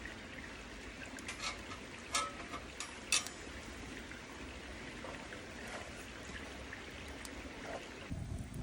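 Wood fire in a small steel fire pit burning with a steady hiss and scattered sharp crackles and pops, the loudest about three seconds in.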